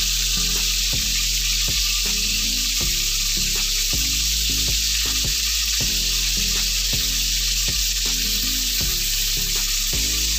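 Mutton kababs shallow-frying in hot oil in a pan: a steady sizzle with frequent small crackles and pops from the oil.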